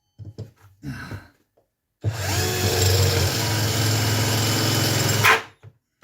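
Cordless drill with a 3 1/4-inch hole saw, after a few light knocks, starting about two seconds in, spinning up and running steadily for about three seconds, then stopping as its battery goes flat.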